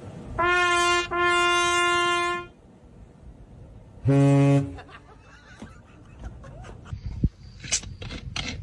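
Horn honking: two steady, higher-pitched blasts, a short one and then a longer one, followed about four seconds in by a single short, lower-pitched honk.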